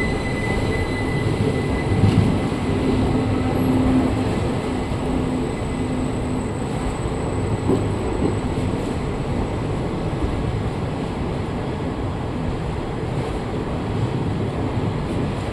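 Lingampally–Narsapur Express passenger train rolling slowly along the platform: a steady rumble of wheels and carriages, with a faint high wheel squeal dying away in the first couple of seconds.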